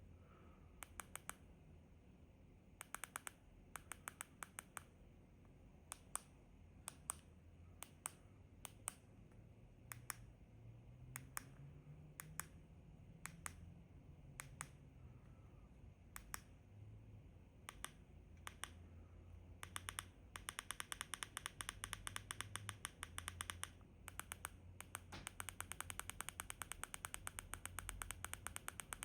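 Plastic buttons on a universal air-conditioner remote control clicking as they are pressed: scattered single presses and short runs at first, then a fast, dense run of clicks for the last third.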